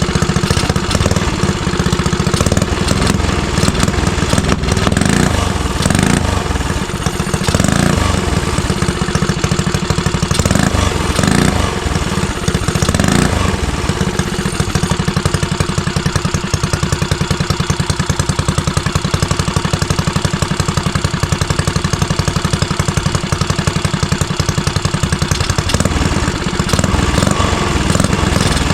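Small single-cylinder mini-bike engine running, with a few brief throttle rises in the first half, then settling into an even idle.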